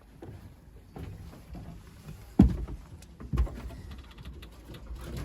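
Pigeon loft door being opened: a sharp knock about halfway through and a second one about a second later, over low rumbling handling noise.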